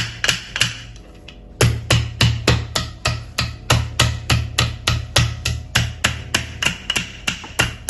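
Rapid repeated strikes of a tool pounding chicken breasts flat through plastic wrap, about four blows a second, with a short pause about a second in.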